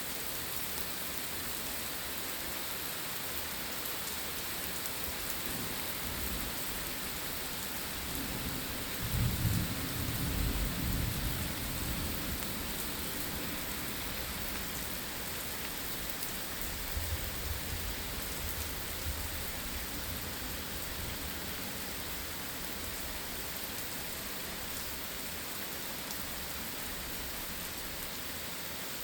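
Steady rain falling during a thunderstorm, with a low rumble of thunder building about eight seconds in and dying away over several seconds, then a fainter rumble a little later.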